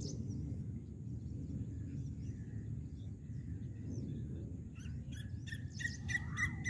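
A bird calling outdoors over a low steady rumble, with a faint steady high whine. Near the end the bird starts a fast, even run of short chirps, about five a second.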